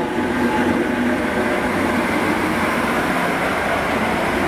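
Transport for Wales passenger multiple-unit train passing close by, a steady running noise from its engines and wheels on the track.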